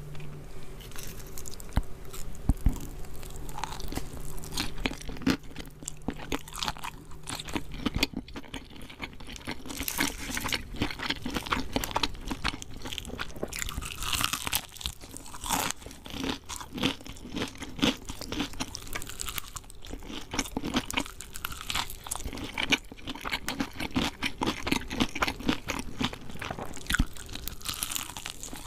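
Close-up crunching and chewing of KFC fried chicken: the crispy coating crackles in many quick, irregular bites and chews. A faint low hum sits under the first half.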